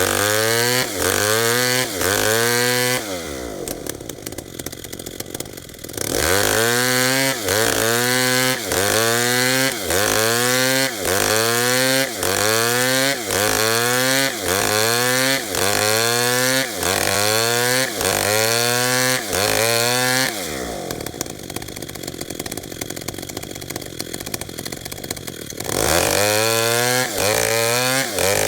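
Chainsaw working tembesu wood, its engine pitch rising and dropping back in a steady cycle about one and a half times a second. Twice, a few seconds in and again later, the sound changes for a few seconds to a rougher, more even noise.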